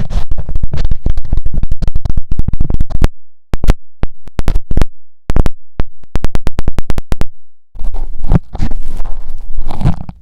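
Metal ear pick scraping inside the ear of a mini ASMR microphone. There are quick scratching strokes for about three seconds, then a string of separate sharp clicks, then rubbing scratches again near the end.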